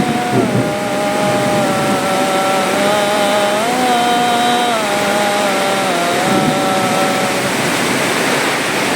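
Chainsaw running at high speed, its pitch dropping and picking back up several times as the load on it changes, as in cutting wood. It fades out about seven and a half seconds in.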